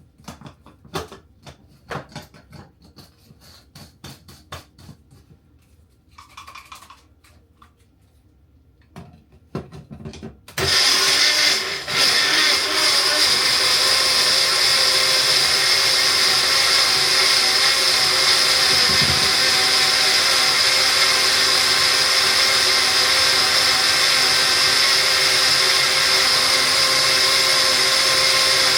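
Scattered clicks and knocks for about ten seconds, then an electric blender starts and runs steadily, dipping briefly just after it starts, blending jerk marinade thinned with a little water.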